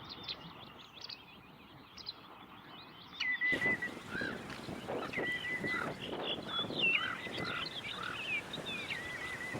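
Wild birds calling and chirping. About three and a half seconds in, the calls grow suddenly louder and busier, with a repeated flat whistled note among shorter chirps.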